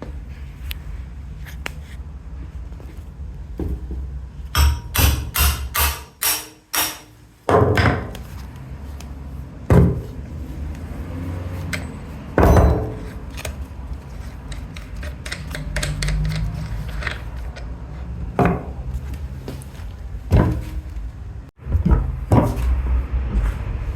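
Irregular knocks and clanks of hand tools at work on a scooter engine. A quick run of strikes comes about five seconds in, then single heavier knocks every few seconds over a low background rumble.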